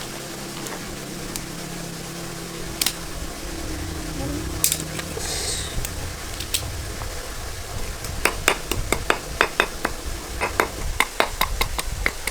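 Metal clinking and tapping, like hand tools on metal parts, ending in a quick run of sharp clicks over the last few seconds.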